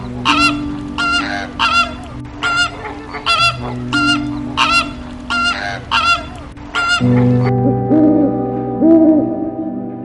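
Goose honking repeatedly, short sharp honks about twice a second, over a steady low hum. About seven seconds in the honking stops and a lower, repeated call takes over.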